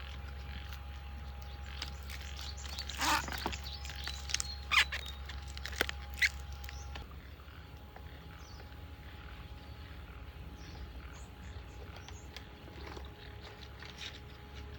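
Rural outdoor ambience with faint bird chirps, with a few short, sharp sounds in the first half.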